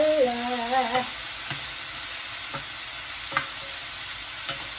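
Food sizzling steadily as it fries in oil in a pan, stirred with a utensil that clicks against the pan four times.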